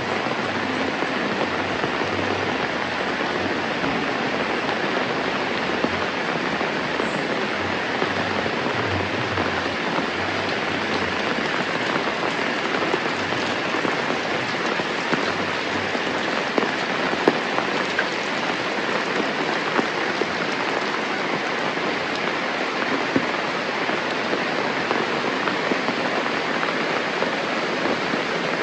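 Steady rain falling, an even hiss, with a few sharper drop hits standing out now and then in the second half.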